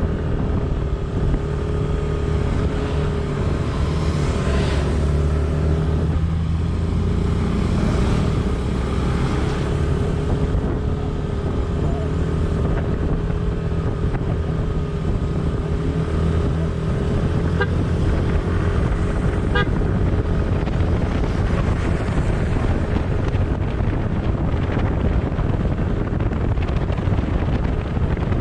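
Vehicle engine running steadily while driving along a road, with a continuous low rumble of road and engine noise.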